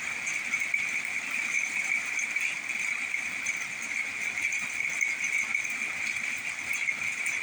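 Steady high-pitched chorus of night insects, a constant shrill trill.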